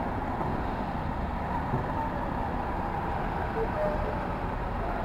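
New York City street ambience: a steady low rumble of road traffic.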